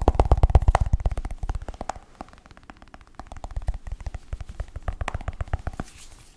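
Rapid close-mic tapping: a fast run of sharp, bass-heavy taps, loudest in the first two seconds, dropping off, then picking up again near the end.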